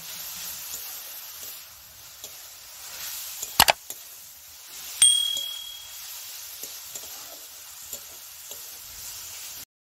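Onions and ground spices sizzling in oil in a metal karahi while a metal spatula stirs and scrapes them. Two sharp knocks of the spatula on the pan come about three and a half seconds in, and a strike with a short metallic ring about five seconds in. The sound cuts off suddenly near the end.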